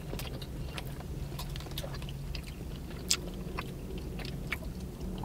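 A person chewing a mouthful of cream cake close to the microphone: scattered small mouth clicks over a low steady hum.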